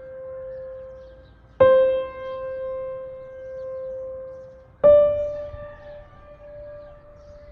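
Slow, sparse piano-like background music: single notes struck about every three seconds, each ringing out for a few seconds, the second a little higher than the first.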